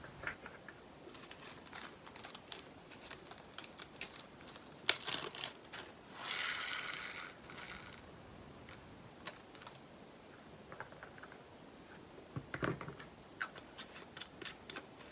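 Small plastic clicks and taps from handling diamond-painting drill bags and little plastic storage pots, with a longer crinkling rustle lasting about a second and a half some six seconds in.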